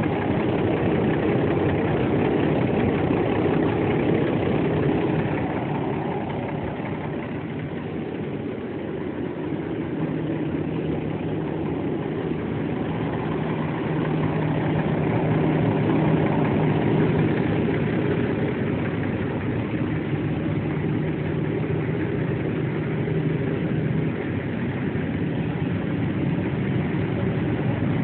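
Cummins ISX inline-six diesel engine of a semi truck idling steadily, getting a little quieter for a few seconds before coming back up.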